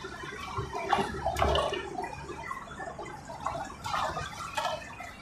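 Neighbourhood fireworks going off: scattered pops and crackles, with a louder bang about a second and a half in.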